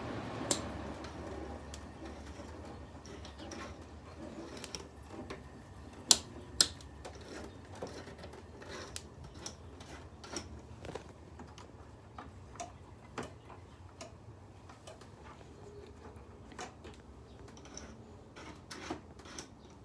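A window air conditioner just switched off, its low hum dying away over the first couple of seconds. Scattered light clicks and ticks follow, with two sharper clicks about six seconds in.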